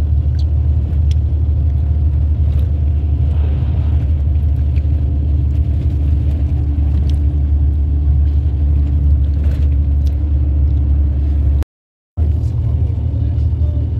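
Steady low rumble of a bus on the move, heard from inside: engine and road noise, with a few faint rattles and clicks.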